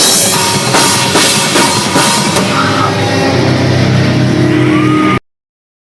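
Metalcore band playing live, loud and recorded with poor audio quality: drums and cymbals hit over distorted guitars, then the drums stop about halfway and a chord is held ringing. The sound cuts off suddenly about five seconds in.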